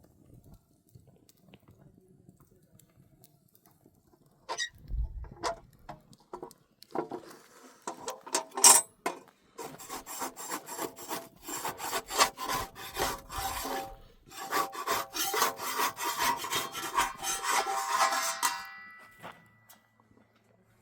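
Fast, rhythmic rasping strokes of something being scraped or sawn, starting about four seconds in. They break off briefly near the middle and stop a couple of seconds before the end.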